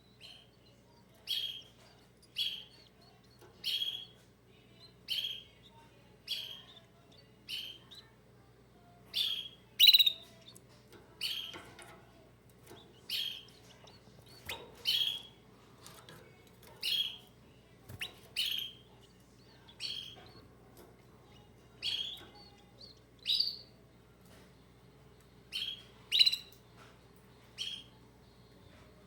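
Pet canary giving short, sharp chirps, one or two about every second.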